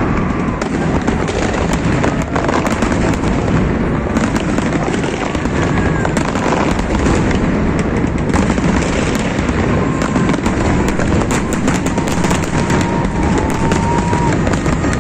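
Fireworks display: a dense, unbroken barrage of bangs and crackles from many aerial shells bursting at once.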